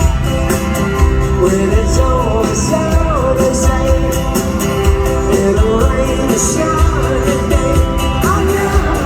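Live rock band music with steady drums and cymbals under a singing voice.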